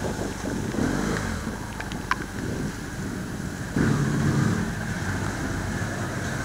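BMW F800GS parallel-twin engine running as the motorcycle rides over gravel, with wind noise. About four seconds in, the engine gets louder as the bike passes through a stone tunnel.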